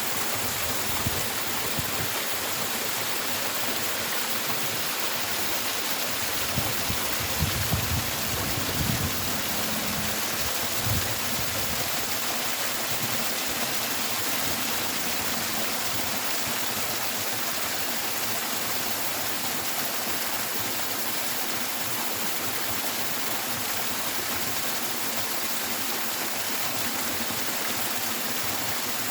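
Steady rushing of running water, a stream or waterfall. A few low thumps come about a third of the way in.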